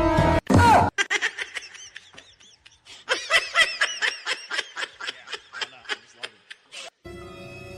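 Rapid, high-pitched laughing, a long run of short giggles several times a second, with a steady held tone starting near the end.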